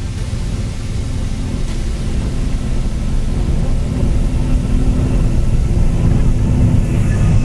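Running noise heard inside the carriage of a moving regional train: a steady low rumble of the wheels on the track, growing slightly louder toward the end.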